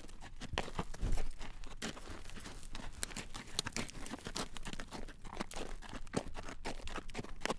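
A horse's hooves clacking on a road as it draws a carriage: a dense, uneven run of clip-clops, with a low thump about a second in.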